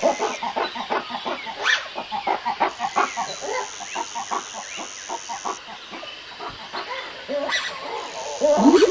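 Ring-tailed lemurs calling in a rapid run of short, clucking chatters, several a second, over a steady high-pitched background tone. A rising whoosh comes near the end.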